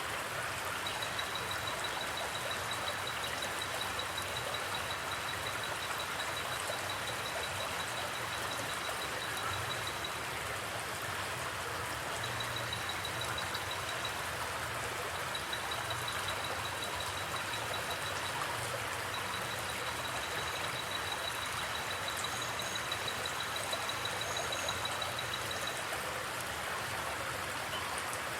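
Forest creek water flowing and rushing steadily. Over it, a high, rapid pulsing trill comes and goes in several long stretches, with a couple of brief higher chirps near the end.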